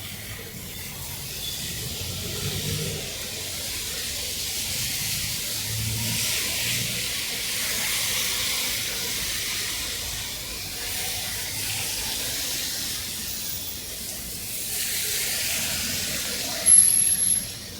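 Heavy rain falling with a steady hiss that swells and eases. A short, loud, high-pitched squeal comes near the end.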